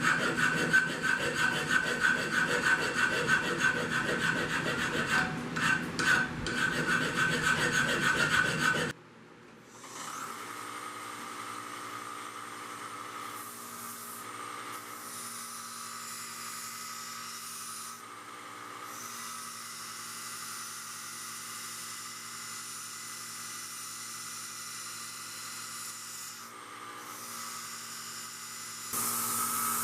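A hand file rasping in quick repeated strokes across a steel bar, as the piece is cleaned up and given octagonal facets. About nine seconds in the filing stops abruptly and a quieter steady hum with faint steady tones takes over, stepping up again near the end.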